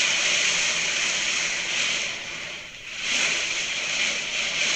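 Heavy wind-driven rain: a dense, steady hiss of downpour and gusts that drops away briefly about halfway through, then comes back.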